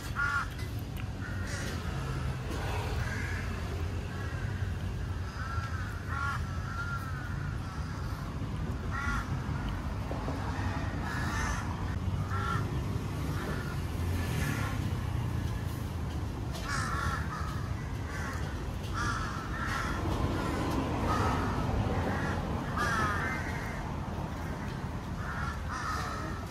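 Birds calling in short, repeated calls scattered throughout, some with a wavering pitch, over a steady low rumble.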